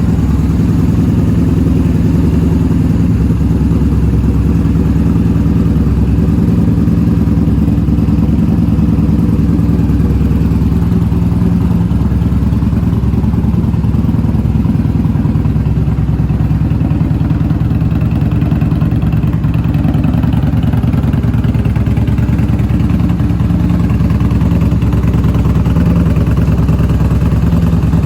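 Yamaha Bolt's 942 cc air-cooled V-twin idling steadily through an aftermarket Vance & Hines exhaust.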